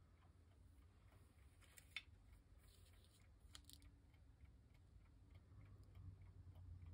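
Near silence: low room hum with a few faint clicks.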